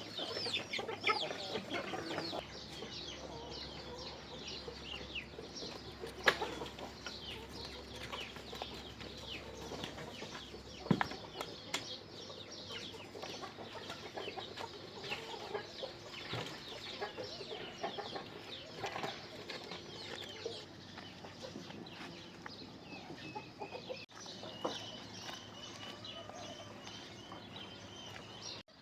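Chickens clucking and chirping, many short falling calls throughout, with a couple of sharp knocks about six and eleven seconds in.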